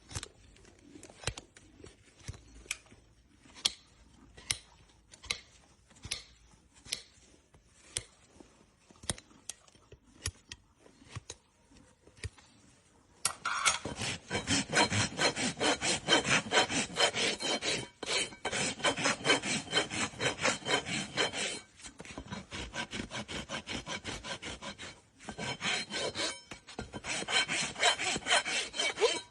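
A farrier's hoof rasp filing a horse's hoof in fast, loud, scraping strokes. It starts about halfway through, pauses briefly twice and then resumes. Before it there is a run of single sharp clicks about once a second.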